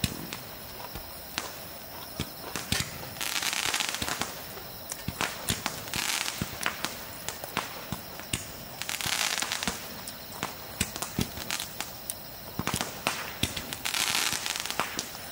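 Irregular crackling and popping, sharp clicks all through, with a brief rush of hiss every few seconds.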